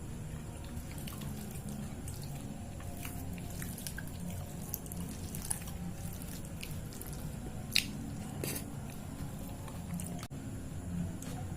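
Close-miked eating: wet chewing with scattered small mouth clicks and smacks, one sharper click about eight seconds in, over a steady low hum.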